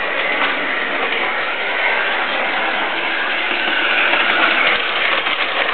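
Model train layout running with its train sound effects: a steady, even rushing noise.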